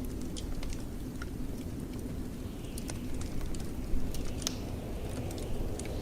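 Wood fire in a fireplace crackling, with scattered sharp pops and one louder pop about four seconds in, over a low steady rumble of blizzard wind.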